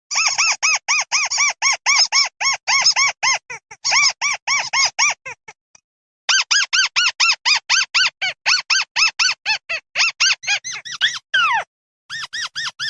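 A 'mắt xéo' bird giving its flock call: fast runs of short, arched, squeaky notes, about five a second, in two long bursts with a break about halfway. A few longer downward-slurred notes come near the end, followed by a fainter quick run.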